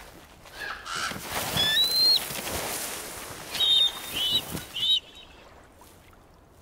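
A bird calling: one long high call, then three short high calls in quick succession, over a rustling background noise that cuts off suddenly about five seconds in.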